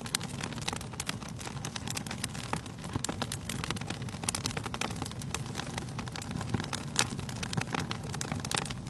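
Wood fire burning in a fireplace: a steady low rumble of flames with irregular sharp crackles and pops of the burning logs, a louder pop about seven seconds in.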